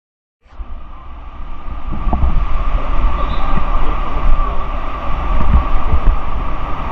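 Steady roar of rushing whitewater at a waterfall, with wind rumbling on the microphone. It cuts in after silence about half a second in and grows louder over the next second or two.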